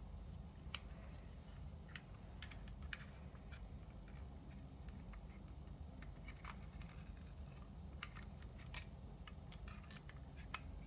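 Scattered light clicks and taps of small parts being handled, irregular and several per second at times, over a low steady hum.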